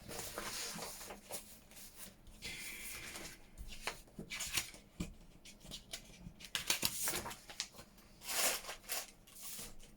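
Paper and card pieces being handled and shuffled: intermittent rustling and sliding with a few light taps, louder rustles about seven and eight and a half seconds in.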